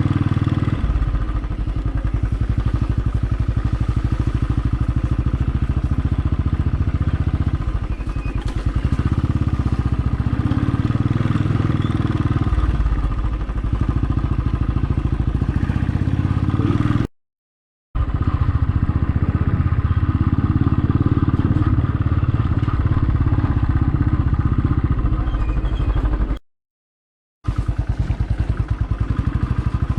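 Motorcycle engine running steadily as the bike rides over a potholed road. The sound cuts out to silence twice, for about a second each.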